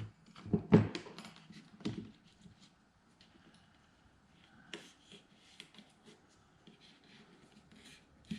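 Handling noises as a prop arm is taped in place on a metal stand: a few knocks and bumps in the first two seconds, the loudest just under a second in, then faint scattered clicks and rustles of tape and hands.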